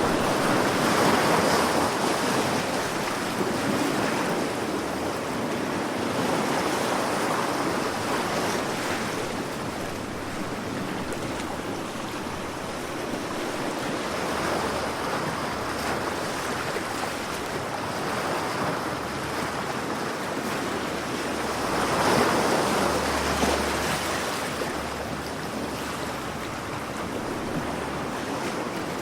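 Sea waves washing in, a steady rushing that swells and ebbs slowly, with the biggest surges near the start and again about three-quarters of the way through.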